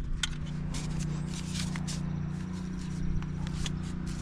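Light plastic clicks and scrapes from handling steering-wheel trim pieces and their clips, over a steady low background hum.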